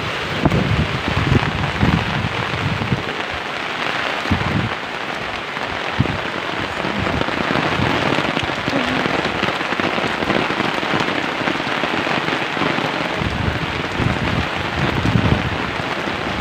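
Heavy rain pouring steadily, a dense even hiss, with uneven low rumbles now and then.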